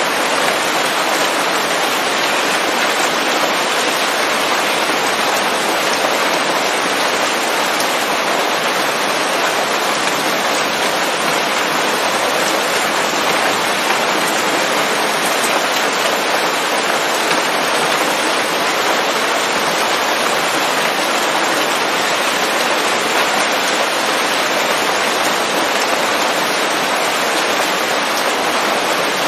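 Steady rain falling on leaves: a dense, even patter with no thunder or other events.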